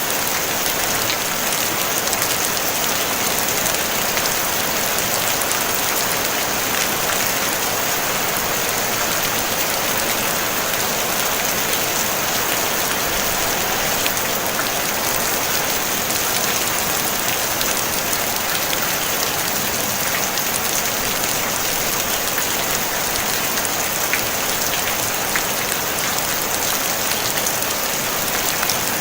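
Steady rain drumming on a tin roof: an even hiss of many drops with scattered single drop ticks, unchanging throughout.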